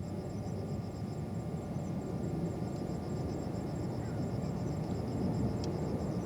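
Distant jet airliner engine noise: a steady rumble that slowly grows louder.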